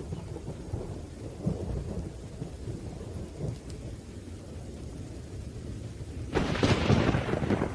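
Thunderstorm: rain falls with a steady low thunder rumble, then a loud, sharp crack of thunder breaks in near the end and rumbles on.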